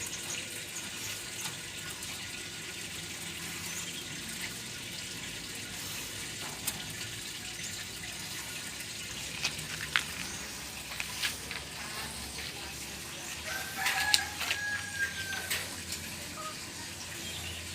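A bird gives one held call of about two seconds near the end, over a steady hiss, with a few sharp clicks before it.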